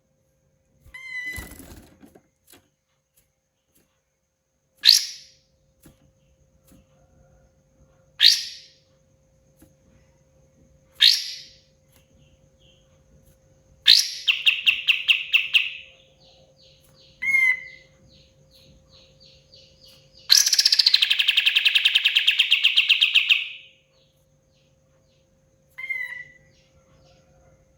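Kapas tembak songbird calling: loud, sharp single notes every few seconds, then rapid rattling trills, the longest lasting about three seconds. A faint steady hum underneath.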